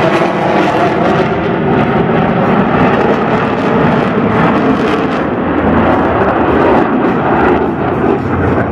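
Jet engines of Blue Angels F/A-18 Hornets flying past during their display, a loud, steady noise without a clear tone.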